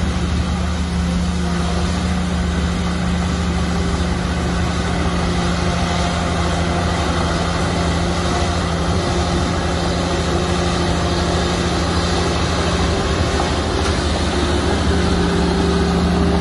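Heavy diesel engine of earthmoving machinery running steadily at an even pitch.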